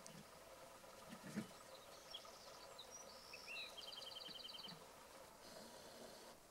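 Quiet outdoor ambience with a small songbird singing in the background: a few high chirps and whistled notes, ending in a fast trill of about ten notes before the end. A single low thump about a second and a half in.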